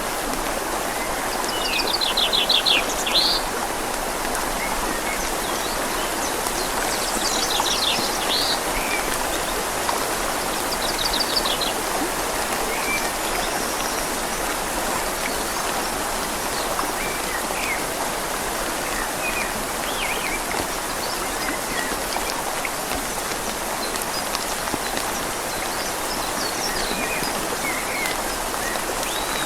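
Steady rain falling on leaves over a flowing river. A bird gives short, rapid trilled calls about two, seven and eleven seconds in, with fainter chirps scattered after.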